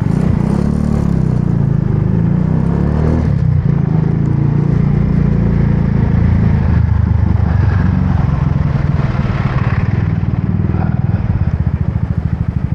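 Motorbike engine picking up as the bike pulls away, then running steadily at riding speed.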